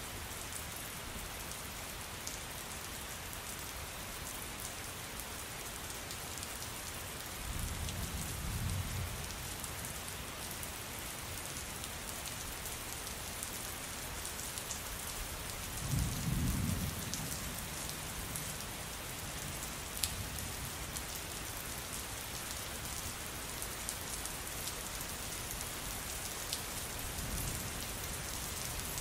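Steady rain pattering on a surface, with sharp individual drops, while thunder rumbles low three times, loudest about halfway through.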